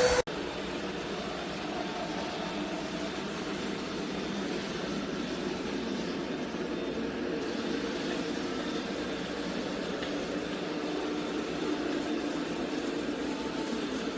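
A loud vacuum sound cuts off abruptly just after the start, giving way to a robot vacuum-mop running with a steady, even motor hum.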